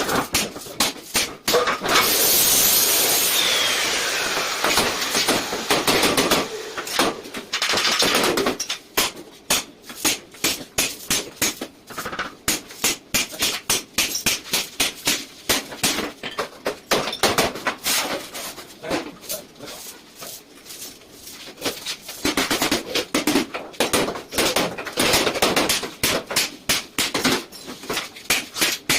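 Hammer blows on steel sheet, repeated several times a second as the sheet is beaten into a bend. About two seconds in there are a few seconds of steady loud noise.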